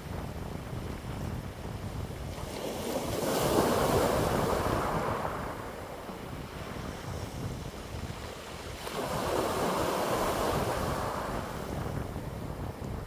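Wind blowing in gusts, swelling and easing twice, with a low rumble of wind on the microphone.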